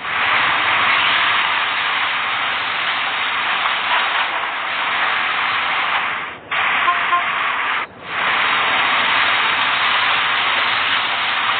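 Steady loud hissing noise with no clear pitch, broken by two short dropouts about six and eight seconds in.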